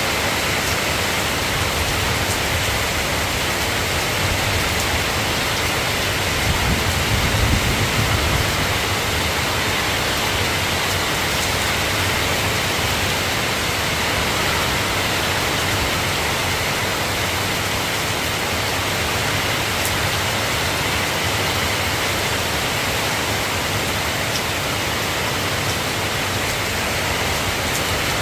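Steady soft rain falling, a constant even hiss with no breaks, and a brief low rumble about seven seconds in.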